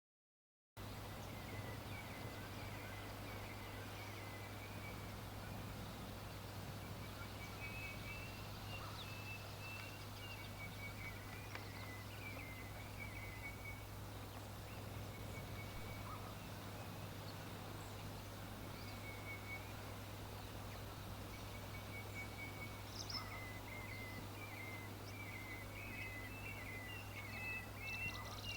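Small birds chirping and calling outdoors in short repeated high notes and quick trills, getting busier near the end, over a steady low hum and hiss. The sound begins just under a second in, after a moment of total silence.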